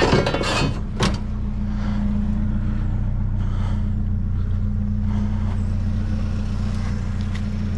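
Pickup truck engine running steadily as the truck drives, with a couple of short knocks about the first second in.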